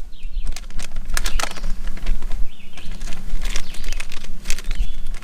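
Rustling and crinkling of gear being handled while a bag is sorted, a quick irregular series of crisp crackles, over a steady low hum.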